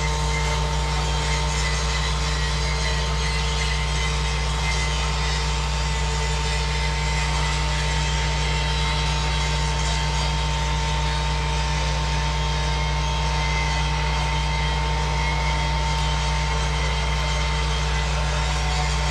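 A steady, unchanging engine or machinery drone: a heavy low hum with a few fixed whining tones above it, holding constant throughout.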